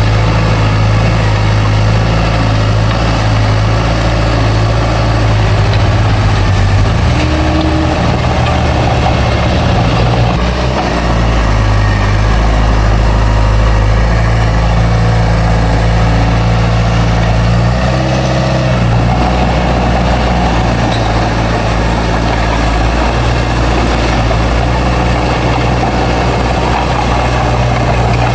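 Bulldozer's heavy diesel engine running continuously as it works dirt, its note shifting a few times as the load changes.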